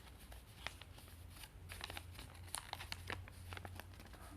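Sheet of paper being handled and folded into a paper airplane: scattered soft crinkles and creases, over a low steady hum.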